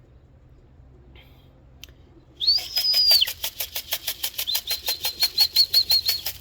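A can of pigeon feed shaken in an even rhythm, about six shakes a second, starting about two and a half seconds in, with a high whistle over it that turns into a warble: a pigeon keeper calling his young birds down to feed.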